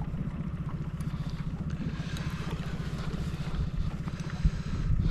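Small boat's engine idling steadily with a rapid, even throb, under a faint hiss of wind and water; a short low thump about four and a half seconds in.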